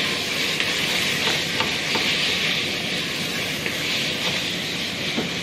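Tomato-onion masala with fried aubergine sizzling steadily in hot oil in a pot, stirred with a wooden spoon, with a few faint clicks.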